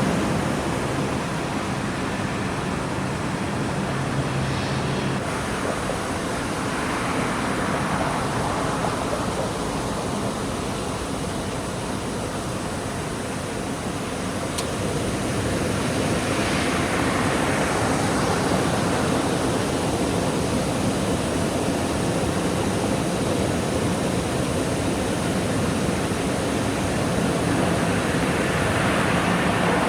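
Jet engine noise from a Boeing 737 airliner: a steady rushing roar that grows a little louder about halfway through.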